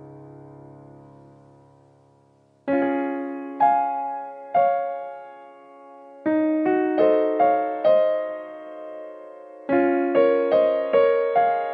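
Background piano music: a held chord fades away, then a slow melody of struck notes and chords comes in about two and a half seconds in.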